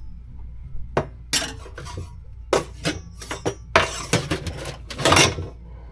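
Metal clanking and clinking as a steel bracket is worked into place in a skid steer's frame: a string of irregular knocks with short ringing, the busiest stretch about four to five seconds in, over a steady low hum.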